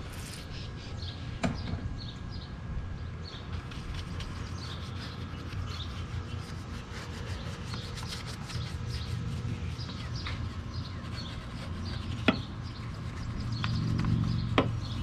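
Hand scrubbing and wiping in a car's engine bay with a detailing brush and towel, with three sharp clicks of tools or parts knocking. Birds chirp in the background, and a low rumble swells near the end.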